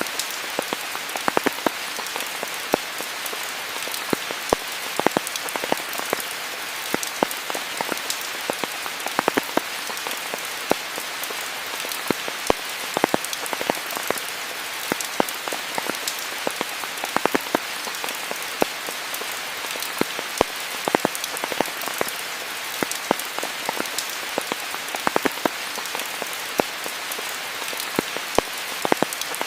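Steady rainfall: an even hiss of rain with many close, sharp drops pattering at irregular moments.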